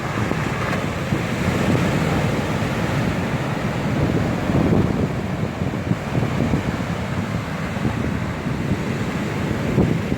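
Stormy sea surf rolling and breaking on the shore, mixed with strong wind buffeting the microphone in a steady low rumble.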